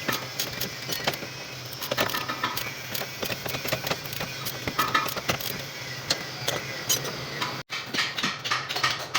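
Metal hand tools clinking and clicking irregularly during work on a truck's brake master cylinder, with a steady low hum underneath. The sound drops out for an instant near the end.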